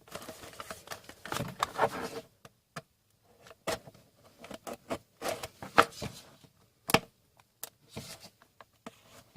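A sealed trading-card hobby box being opened and handled: scattered sharp clicks, taps and short rustles of wrapping and cardboard, with brief quiet gaps between them.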